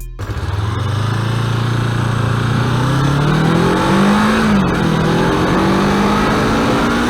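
1993 Kawasaki ZZR-250's 248cc four-stroke parallel-twin engine pulling as the motorcycle accelerates. Its pitch climbs steadily for about four seconds, dips briefly about four and a half seconds in, then holds steady and starts rising again near the end.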